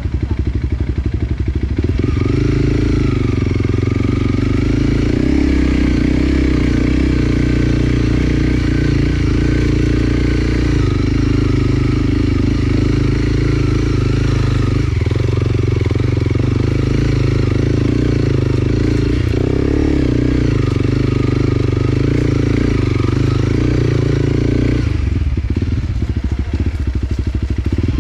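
Enduro dirt bike engine running hard on a trail, its revs rising and falling. Near the end it turns choppier and less even.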